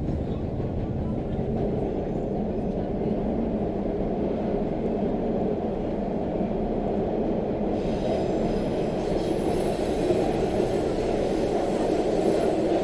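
Subway train running: a steady, loud rumble of the carriage on the rails, with a brighter hiss joining in about eight seconds in.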